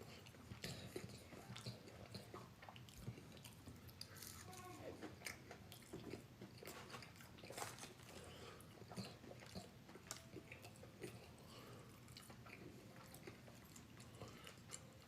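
Faint chewing and biting as a person eats Wingstop fried chicken: wet mouth sounds with small irregular crunches and clicks, a slightly louder crunch about halfway through.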